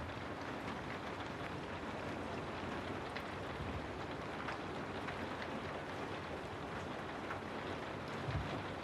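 Steady rain ambience: an even hiss of rainfall with scattered small drop ticks, and a brief low rumble near the end.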